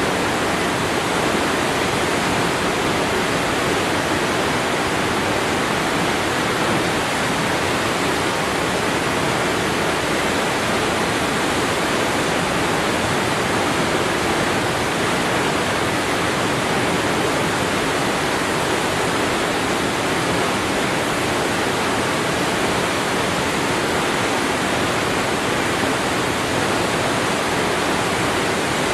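Waterfall: a steady, unbroken rush of falling water, even across low and high pitches with no distinct splashes.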